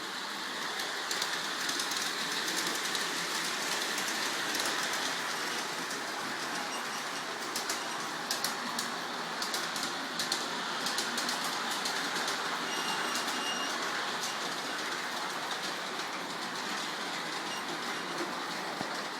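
G-scale model train pulled by a Percy locomotive running along its track: a steady whirring rumble with scattered sharp clicks in the first half.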